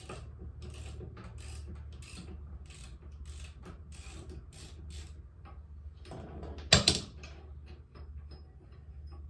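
Socket ratchet clicking about twice a second as the lawn mower blade's bolt is worked counterclockwise, with one loud knock about two-thirds of the way in.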